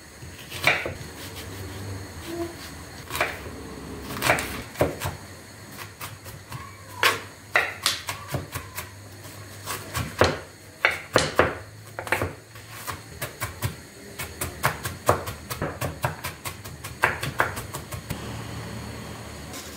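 A long run of irregular knocks and clicks, some close together and some spaced out, over a faint low hum.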